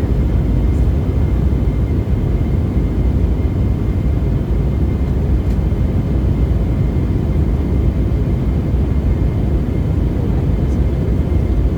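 Steady aircraft cabin drone in flight: a loud, even engine-and-airflow rumble heavy in the low end, with a faint steady whine above it.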